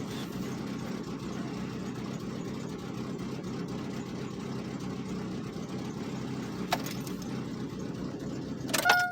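Chevrolet Cavalier's engine idling steadily after a cold start, running rich. Near the end it is switched off and the hum stops suddenly, and a steady two-tone chime begins.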